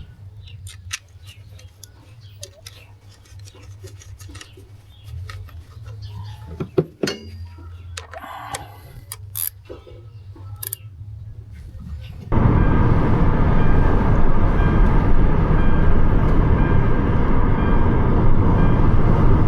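Scattered clicks and knocks over a low steady hum. About twelve seconds in, this cuts abruptly to the loud, steady noise of the car being driven.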